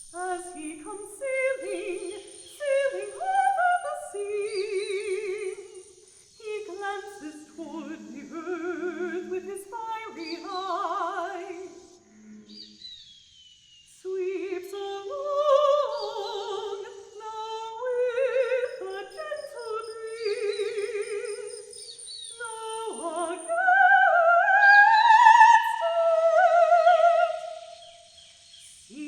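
Female voice singing in an operatic style with wide vibrato, in long sustained phrases with short pauses between them. A high, thin, pulsing trill from recorded birdsong sounds behind the voice.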